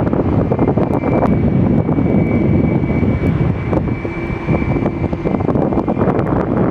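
Airliner engines running, a steady high whine over a dense rumble.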